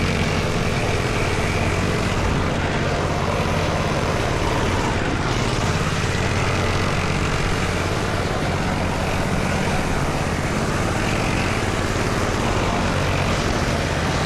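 Small dirt bike engine running steadily under way, a constant drone with a broad rushing noise over it.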